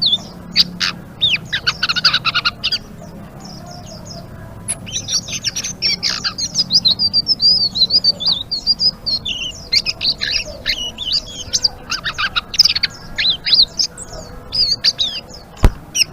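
A 'selendang biru' songbird singing vigorously in rapid, twittering chattering runs of quick high chirps and trills, with a short pause of a couple of seconds early on before the chattering resumes. A single sharp click sounds near the end.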